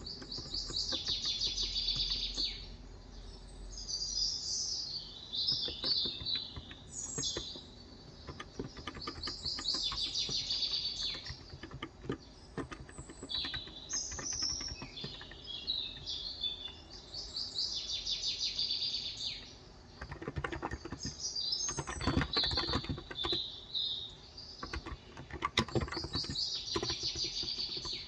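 Wild birds singing in repeated high chirping phrases every few seconds, over typing on a Cox Endeavor electrostatic-capacitive (Topre-style) tenkeyless keyboard with 35 g switches. The keystrokes come in scattered runs of soft clicks, thickest in a burst about two-thirds of the way through.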